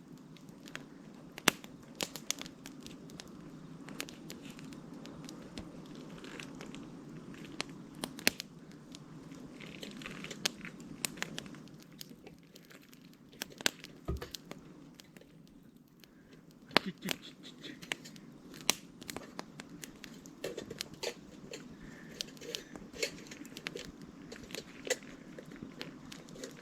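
Wood fire crackling in a Picogrill fire pit: irregular sharp pops and snaps over a low steady hiss.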